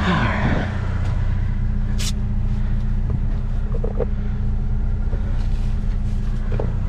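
A vehicle driving along: a steady low engine and road drone, with a single brief click about two seconds in.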